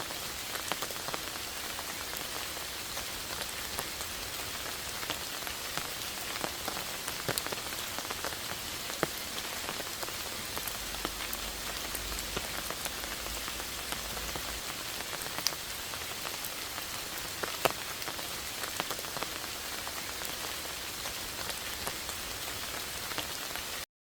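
Steady rain falling, an even hiss with separate close drops tapping at irregular moments. The sound cuts off abruptly at the very end.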